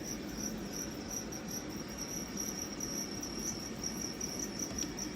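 Steady high-pitched insect trill, slightly pulsing, over a low background hiss.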